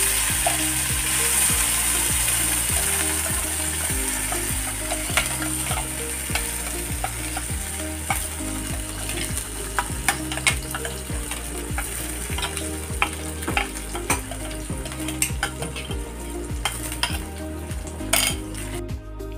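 Green masala paste sizzling and spattering in hot oil in an iron kadhai, loud at first and easing off, with scattered sharp pops and clicks. The sizzle drops away suddenly just before the end.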